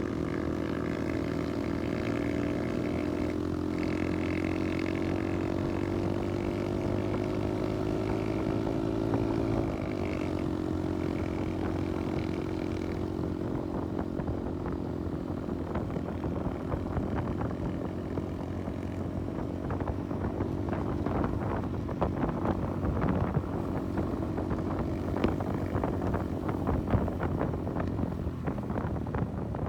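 Kawasaki KSR110's small single-cylinder four-stroke engine running under way, its pitch climbing slowly over the first ten seconds as the bike gathers speed, then wind buffeting the microphone over the engine for the rest of the ride.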